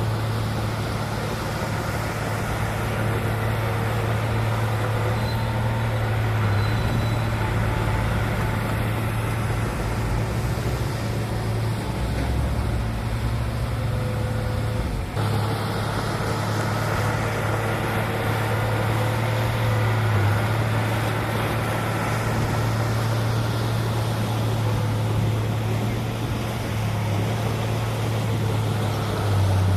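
Heavy diesel engine of earthmoving machinery running steadily with a deep, constant hum. There is a brief break about halfway through.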